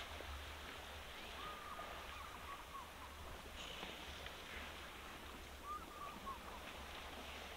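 Faint outdoor waterhole ambience with a steady low rumble, and a bird calling twice in short whistled notes, about a second and a half in and again about six seconds in.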